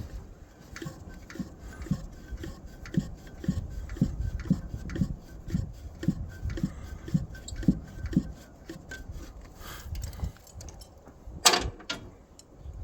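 Hand ratchet wrench worked back and forth to loosen an engine mounting bolt, about two strokes a second, with clicking and rasping. It stops and is followed by one sharp knock near the end.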